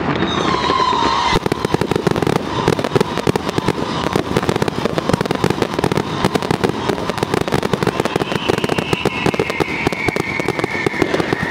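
String of firecrackers going off in a rapid, continuous crackle of pops, thickening about a second and a half in. A faint high tone slides slowly downward near the end.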